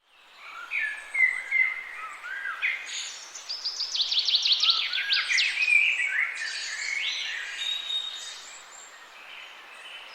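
Several songbirds singing at once: whistled, gliding phrases, with a rapid trill of repeated down-slurred notes about three seconds in. The song fades in at the start and is quieter toward the end.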